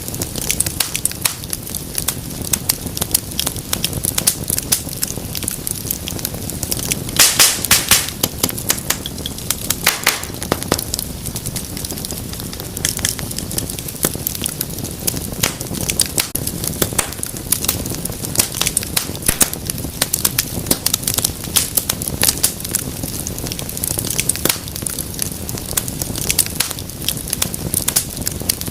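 Wood fire in a fireplace crackling steadily: a dense stream of small snaps and pops over the low rustle of the flames, with a burst of louder pops about a quarter of the way in and another shortly after.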